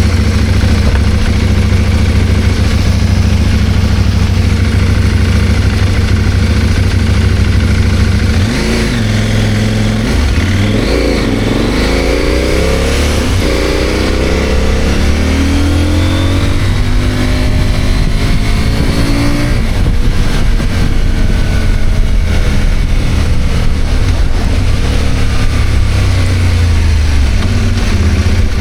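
CFMOTO 800MT's parallel-twin engine running steadily for about eight seconds, then accelerating, its pitch rising and dropping back several times as it shifts up through the gears.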